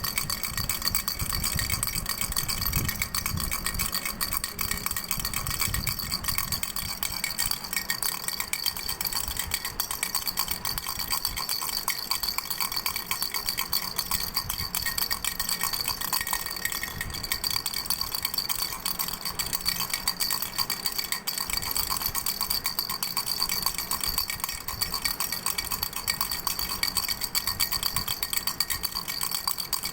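Doraemon baby rattle shaken without pause: a fast, dense rattling with a steady high ringing note.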